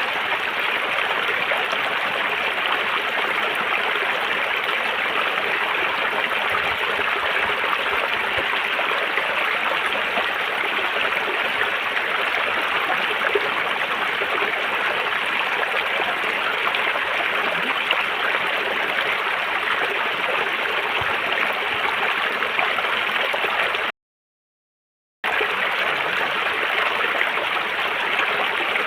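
River water flowing and gurgling steadily, a dense even rush of moving water, with a sudden dropout to silence for about a second near the end.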